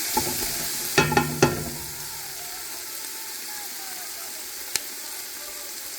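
Onion, scallion, ginger, garlic and curry powder sizzling steadily in coconut oil in a soup pot while being stirred; a utensil knocks twice against the pot about a second in, and there is one short click near the end.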